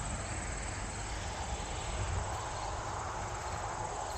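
Insects, likely crickets, trilling steadily as one continuous high thin tone, over a low rumble.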